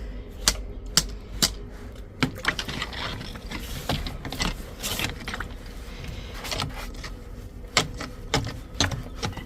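Drain rods being worked in an outside drain: a series of sharp clacks and knocks with scraping in between, several in the first couple of seconds and another group near the end.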